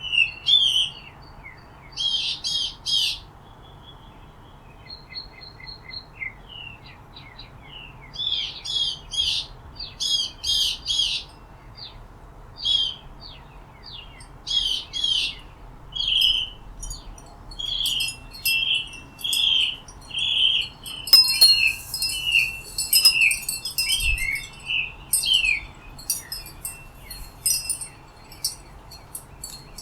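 Small birds chirping and calling in short clusters of high notes. In the second half one bird repeats a single note over and over, roughly once a second.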